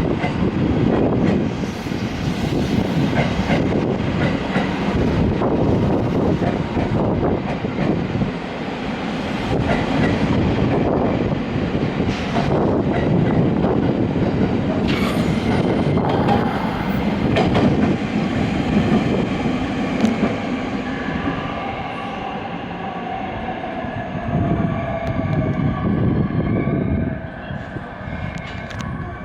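A train moving along the platform track, wheels clacking over rail joints with a heavy running rumble. About two-thirds of the way in, the rumble eases and a thin high whine comes in.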